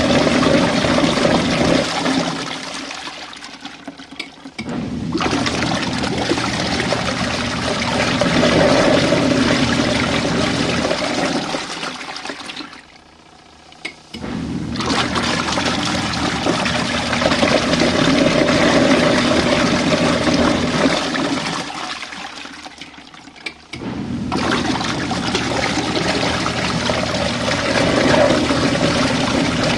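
RV washing machine churning water and suds in its tub during a rinse. It runs in spells of about nine seconds, each fading to a brief pause before the drum starts up again, about three times.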